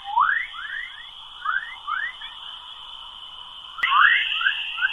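Sonified space radio recording of Earth's 'chorus' plasma waves: a stream of short rising chirps, several a second, over a steady high-pitched tone. A click comes about four seconds in, after which the high tone is louder.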